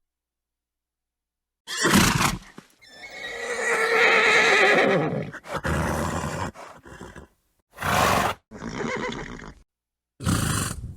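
Horse neighing: after two seconds of dead silence, a short burst, then a long wavering whinny, followed by several shorter horse calls broken by abrupt silent gaps.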